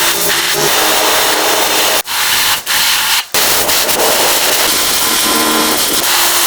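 Power-tool work on metal: a loud, steady rasping hiss with a faint motor hum at times, broken by brief cuts about two and three seconds in.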